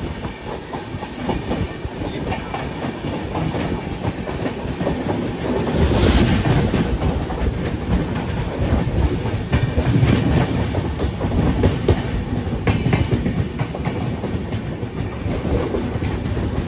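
Passenger train coaches running past close alongside on the next track: a steady rumble with rapid clatter of wheels over rail joints.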